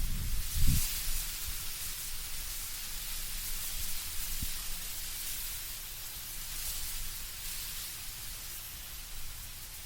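Wind through autumn trees, leaves rustling in a steady high hiss that swells and eases, with a low rumble of gusting wind in the first second.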